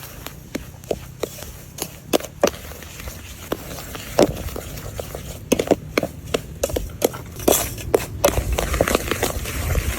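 Irregular clicks and knocks of a metal spoon against a pan as semolina is stirred and roasted for halva, coming faster and louder in the second half over a low rumble.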